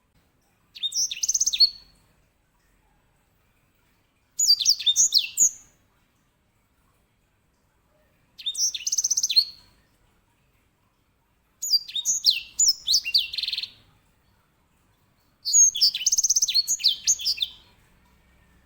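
A white-rumped seedeater (edel sanger, grey singing finch) sings five short, high-pitched phrases of fast trills and quick sweeps, separated by pauses of about two seconds. The last phrase is the longest.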